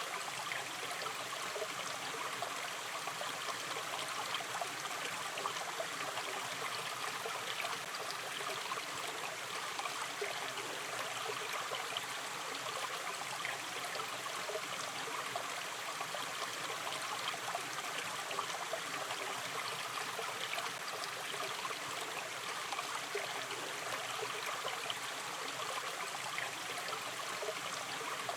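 Shallow river stream running steadily, with a continuous babble and trickle of water over stones.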